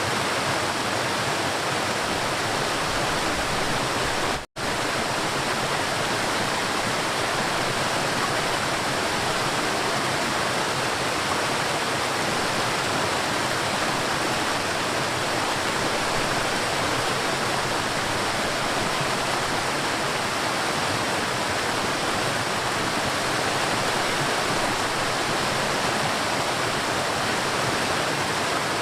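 River water flowing with a steady, even rush. About four and a half seconds in, the sound drops out completely for a split second, then resumes.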